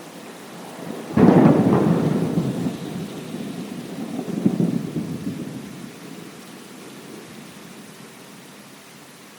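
A thunder clap breaks about a second in and rolls on with a second swell around four and a half seconds, dying away after about six seconds, over steady rain.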